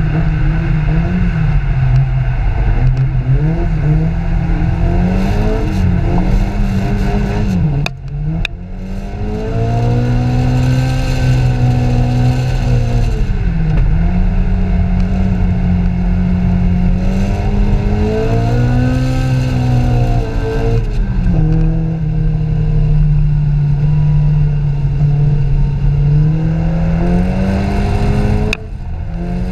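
A car engine heard from inside the cabin while driving, its revs rising and falling. The loudness briefly drops twice, about eight seconds in and near the end, as the throttle is lifted.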